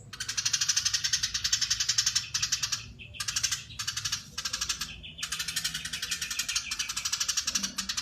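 Eurasian tree sparrow chattering in long, dense runs of rapid high notes, broken by a few short pauses.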